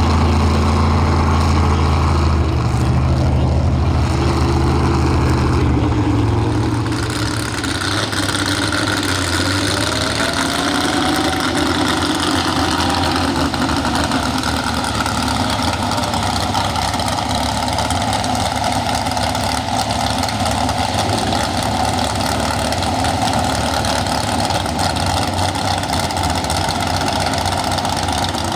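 Pro stock 4x4 pulling truck engine: a deep idling rumble for about the first seven seconds, then the engine runs steadily at high revs for the rest, with a brief rise in pitch around eleven seconds in.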